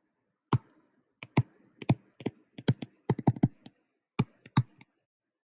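An uneven run of about twenty short, sharp clicks, starting about half a second in and bunching up around the middle before stopping near the end.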